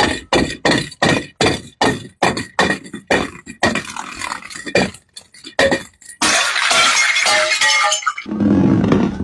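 Glass bottles being crushed and breaking: a quick run of sharp cracks, about three a second, then a longer crunching burst of shattering glass about six seconds in, ending in a duller low rush.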